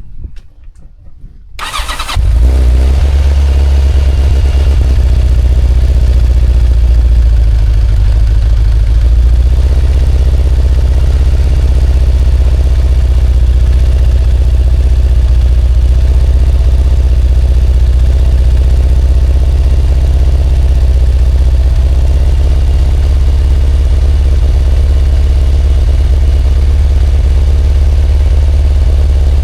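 Kawasaki ZZR1100 liquid-cooled inline-four motorcycle engine starting about two seconds in, then running steadily. This is the swapped-in engine that now blows heavy white smoke on start-up, which the owner suspects is oil getting into the cylinders or coolant leaking into them.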